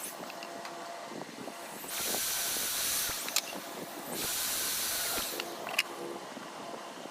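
Compressed air hissing from an air tool in two bursts, each a little over a second long, with a sharp click after each burst.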